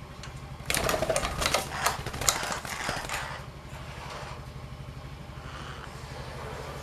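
Small engine idling steadily with an even low pulse. Starting about a second in, a loud burst of harsh, clicking noise lasts about two and a half seconds.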